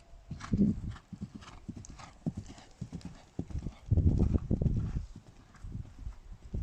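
Horse's hoofbeats on arena footing as it moves round a jumping course, a run of dull thuds with a louder cluster about four seconds in.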